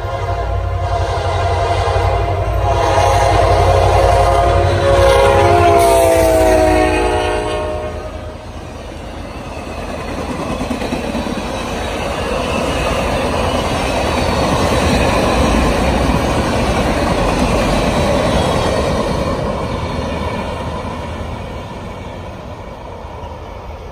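Diesel passenger train passing: the locomotive's air horn sounds one long chord for about eight seconds, its pitch dropping as the engine goes by. Then comes the steady rumble and clatter of the passenger cars rolling past, fading near the end.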